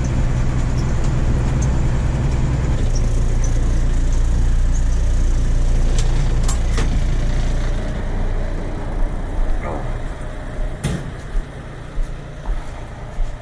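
A vehicle's engine and road noise while driving, a steady low drone that eases off about eight seconds in. A few sharp clicks and knocks come over it, the loudest about eleven seconds in.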